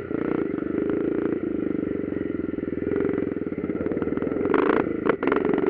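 Motocross motorcycle engines running steadily at race speed, with a short noisy burst about four and a half seconds in.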